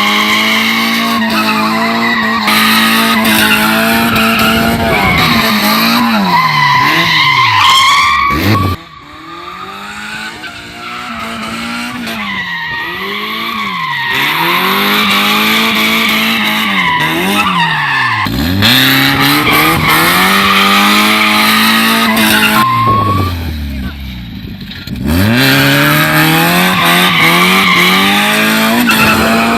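Dubbed race-car sound effects: an engine revving, its pitch dropping and climbing again over and over as if braking and accelerating, with tire-screech skids laid on top. The sound is quieter for a few seconds about a third of the way in.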